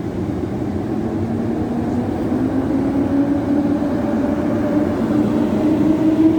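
EP07 electric locomotive hauling a passenger train, its traction motors whining over a low rumble, the whine slowly rising in pitch and getting louder as the train picks up speed.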